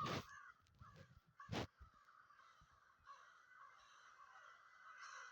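Mostly quiet, with a single short bird call about a second and a half in.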